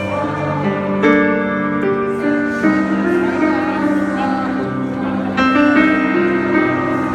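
Slow, piano-led music with sustained chords that change every second or two, played live.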